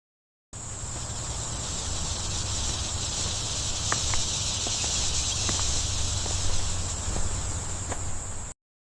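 A steady insect chorus, a continuous high-pitched shrill of crickets or cicadas over a low rumble, with a few faint ticks. It starts abruptly about half a second in and cuts off abruptly shortly before the end.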